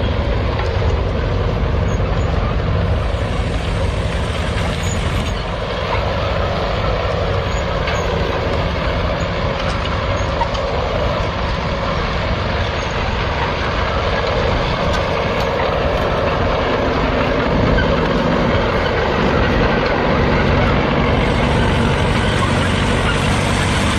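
Tractor engine running steadily under load while pulling a plough through a field.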